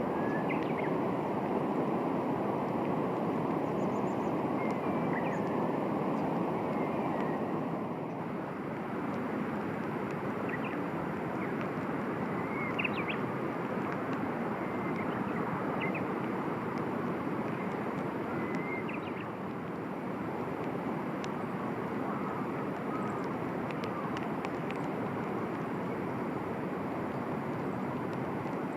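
A few short, high bird chirps scattered over a steady rushing background noise.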